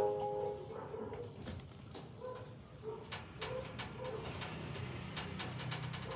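Faint bird cooing in the background: soft low hoots repeated every second or so, with a few light clicks.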